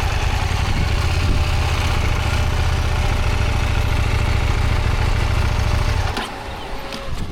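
Motorcycle engine running steadily at low speed, then cutting out suddenly about six seconds in: the engine stalls, which the instructor puts down to braking too much before the U-turn.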